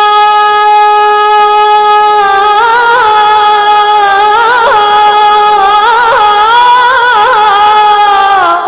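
A solo voice singing an Arabic devotional chant: it holds one long high note for about two seconds, then breaks into a rippling, ornamented melodic run and slides down in pitch near the end.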